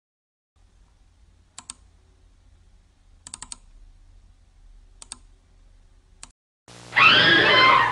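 A few light, sharp clicks over a faint low rumble as a mouse forages across gravel and dry leaves. Near the end a loud, wavering animal call starts abruptly.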